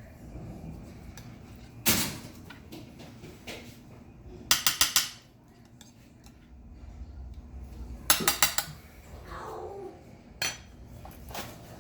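Kitchen utensil knocking and clinking against a baking pan while sauce is spread in it: a sharp knock about two seconds in, two quick runs of about five taps near the middle and later on, and another single knock near the end.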